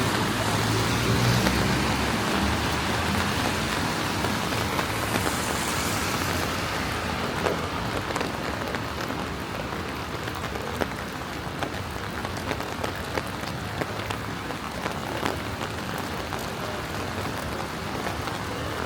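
Steady rain falling on wet city pavement, with scattered close drop taps. A low rumble over the first few seconds fades away.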